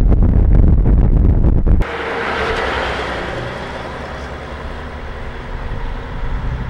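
Cummins NHC-250 inline-six diesel of an M923A1 army truck running, loud and low, with wind buffeting the microphone. About two seconds in the sound cuts abruptly to a quieter stretch with a fading hiss over a low engine hum, which builds again near the end.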